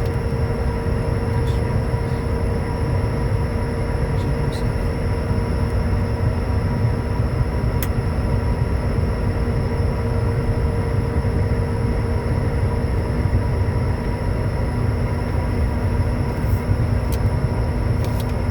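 Cockpit noise of a Bombardier Challenger 350 business jet on the ground after landing: a steady low rumble with several steady tones from the engines and cockpit systems, and a few faint clicks.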